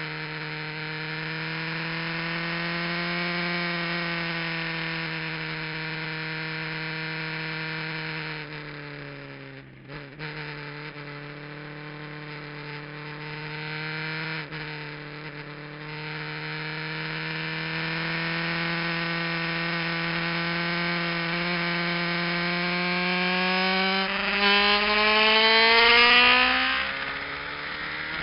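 Kawasaki GPZ900R's inline-four running hard on track, heard from an onboard camera. The engine note holds steady, drops sharply around a third of the way in as the throttle closes, then climbs steadily in pitch under acceleration before falling at the very end on a gear change.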